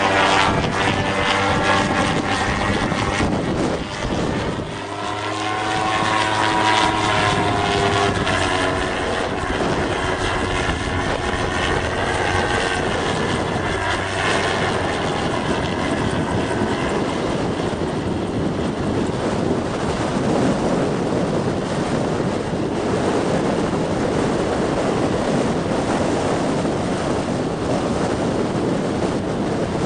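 MT-03 gyrocopter's engine and propeller running, with the engine note dipping and shifting in pitch a few seconds in as power changes. In the second half, a steady rush of wind noise grows over it.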